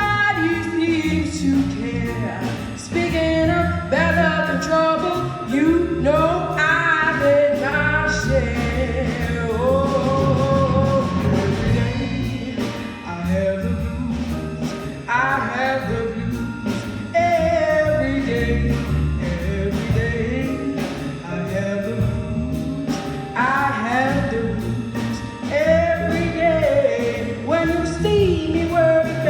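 Live band performance: a female vocalist singing over drum kit, bass guitar and vibraphone, with a steady drum beat.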